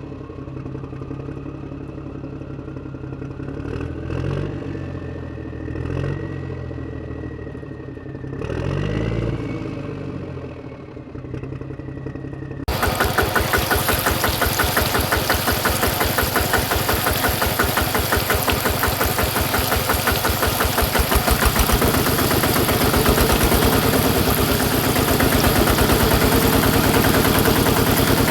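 Miniature toy diesel engine. It is quiet at first, with a few brief swells, then about halfway through it switches abruptly to running loudly with a fast, even firing rhythm.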